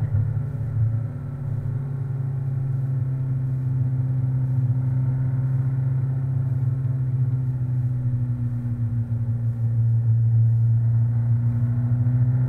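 NSU Thurner RS's air-cooled four-cylinder engine heard from inside the cockpit, running at low, steady revs under light throttle. Its pitch sags a little, then rises again and grows slightly louder near the end.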